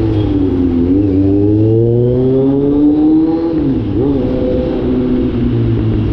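Kawasaki Z900 inline-four with its catalytic converter removed, under way. The revs dip about a second in, then climb steadily for a couple of seconds. They drop sharply, with a short throttle blip near the four-second mark, then hold steady.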